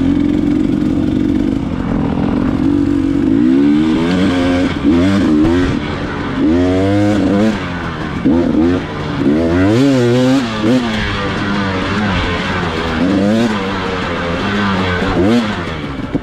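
Dirt bike engine riding a trail: a steady note for the first few seconds, then repeatedly revving up and dropping back as the throttle is opened and closed.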